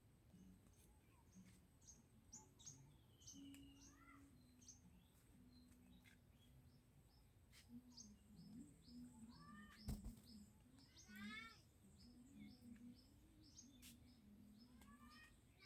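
Faint chirping of small birds: short high calls scattered throughout, with a quick run of rising chirps about eleven seconds in and again at the very end. A single sharp click comes about ten seconds in.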